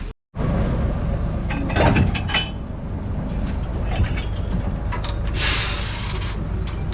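Akasawa forest railway train running on its narrow-gauge track, heard from aboard: a steady low rumble with rattling clicks and clinks, and a brief hiss about five and a half seconds in.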